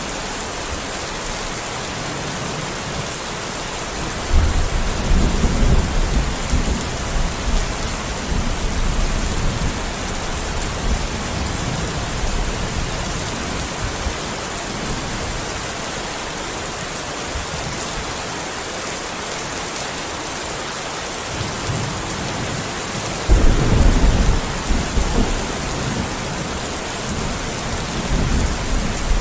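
Steady heavy rain with two rolls of thunder: a long deep rumble about four seconds in, and another, shorter one about twenty-three seconds in.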